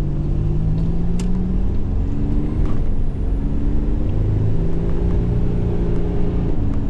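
Turbocharged 3.8-litre V6 of a 1987 Buick Grand National accelerating under boost, heard from inside the cabin. The engine note climbs, breaks briefly at an upshift about three seconds in, climbs again, then eases off near the end. A faint high turbo whistle rises with it.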